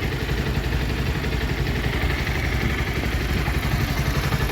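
Bajaj Pulsar 150's single-cylinder engine idling steadily with an even pulse. Its body balancer (scissor gear) has just been replaced, and the engine noise is now normal.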